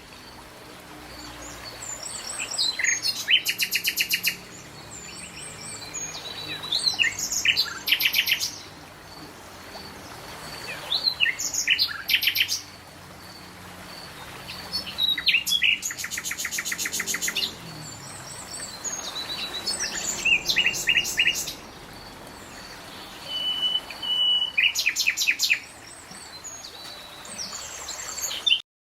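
Songbirds singing: bursts of rapid, high trilled notes and chirps come every few seconds over a faint steady background. The sound stops abruptly near the end.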